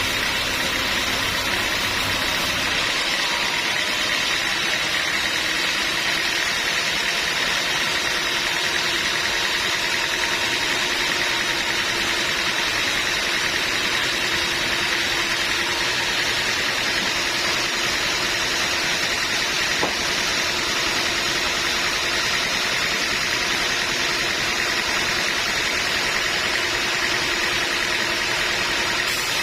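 Sawmill machinery running steadily: a continuous mechanical hum with faint steady whining tones and no pauses.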